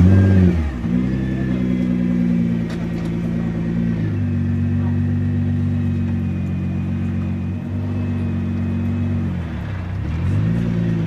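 A sports car's engine catches with a rev flare that rises and falls, then idles high and steady. About four seconds in it drops to a lower, steady idle. Near the end the revs dip briefly and rise again.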